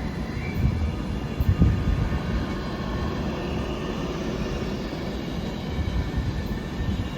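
A train running through the station: a steady low rumble with a few heavier thumps about one and a half seconds in.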